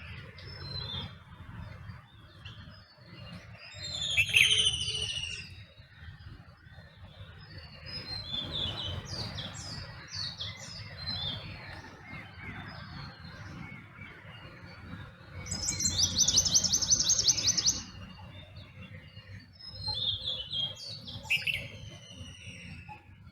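Several wild birds calling and chirping in a dawn chorus: short whistled notes and sliding calls from different birds. The loudest are a falling whistled call about four seconds in and a rapid two-second trill past the middle, over a low steady rumble.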